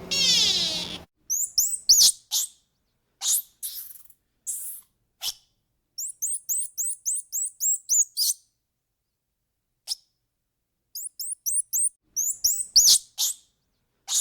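Small birds chirping: short, very high chirps with quick runs of rapid chirps, broken by silent gaps. A louder, lower call with a falling pitch ends about a second in.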